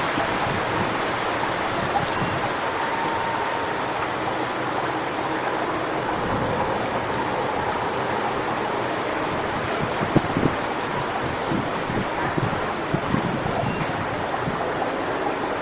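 Strong wind rushing steadily through coconut palm fronds, with gusts buffeting the microphone.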